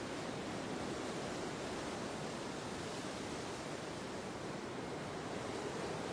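Steady wind blowing, a continuous even rush with no gusts or breaks.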